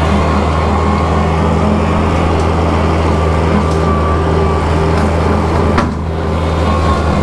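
Kubota tractor's diesel engine running steadily while bush hogging, with a sharp click and a brief dip in the engine sound about six seconds in.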